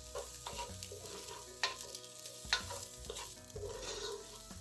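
Onion frying in hot oil in a pan with a faint sizzle, while a utensil stirs it, knocking and scraping against the pan a few times.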